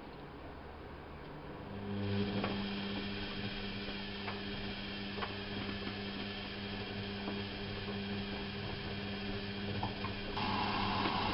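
Bauknecht WAP 6460 washing machine: about two seconds in, its motor starts with a steady hum, with a few light clicks. Near the end a rushing hiss comes in on top.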